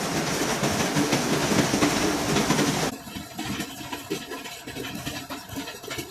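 Milling machine running while cutting gear teeth, a steady mechanical clatter; about three seconds in the sound drops abruptly to a quieter run.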